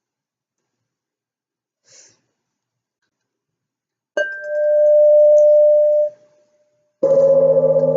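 A singing bowl struck, its single clear tone swelling and then cut off sharply about two seconds later as it is damped. Near the end, a deeper bowl or gong is struck and rings with many overtones.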